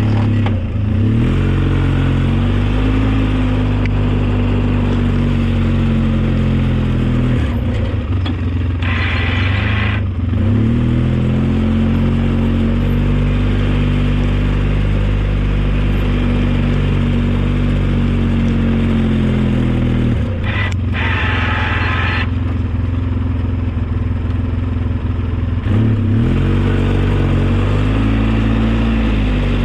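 Engine of an old snow-plow vehicle running steadily under load, its pitch dipping and recovering about four times as it works. A higher whine comes in twice for a second or two, around nine seconds in and again around twenty-one seconds in.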